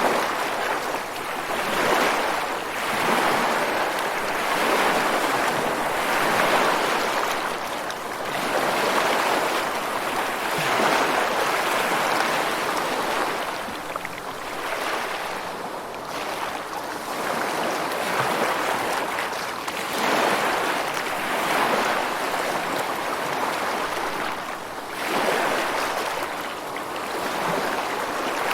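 Rushing water, a steady hiss that swells and ebbs every few seconds, like surf or a fast stream.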